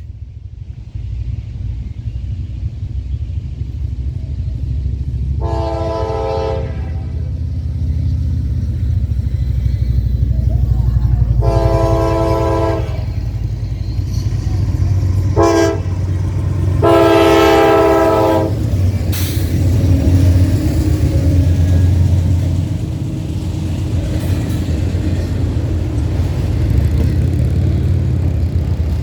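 Two GE Dash-8 diesel locomotives rumbling past under power, sounding the air horn in the long-long-short-long grade-crossing pattern. The heavy rumble of the engines and the train continues after the horn stops.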